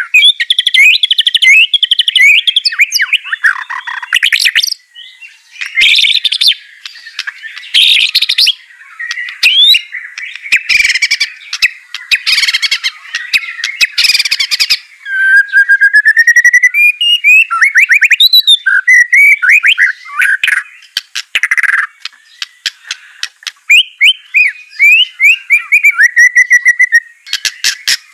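White-rumped shama (murai batu) singing a loud, varied song: rapid trills and chattering note trains mixed with whistled rising and falling phrases, broken by short pauses.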